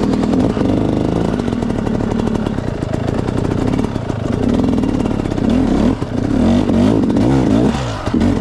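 Off-road enduro motorcycle engine running loud, its revs rising and falling again and again as it is ridden over slippery trail.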